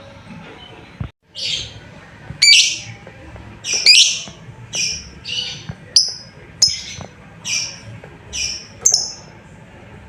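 Lovebird giving a run of about a dozen short, high-pitched chirping calls, roughly one every half second to second. These are calls to a companion, used as a lure to make other lovebirds answer.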